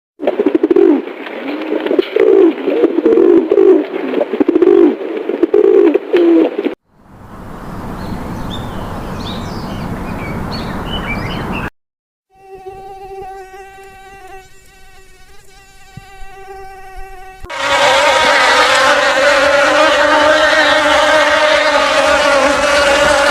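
A string of short animal-sound clips cut one after another: first a loud dense buzzing for about seven seconds, then a noisy stretch with high chirps, then a steady pitched call with many overtones, and a loud steady pitched sound with a rough edge for the last six seconds.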